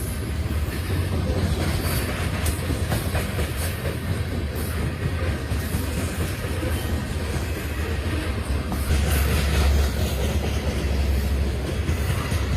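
Norfolk Southern grain freight train rolling past: a steady, loud, low rumble with scattered wheel clicks, swelling louder about nine seconds in.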